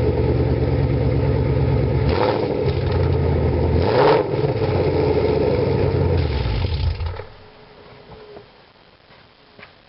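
2017 Mustang GT's 5.0 L V8 running through BBK headers and an MBRP 3-inch cat-back exhaust, a deep steady idle with two short sharp bursts about two and four seconds in. About seven seconds in the engine sound stops, and only faint clicks follow.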